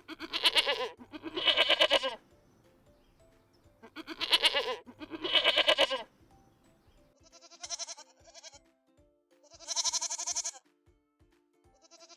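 Goats bleating, several calls in a row: four loud bleats in two pairs over the first six seconds, then higher, quavering bleats, over soft background music.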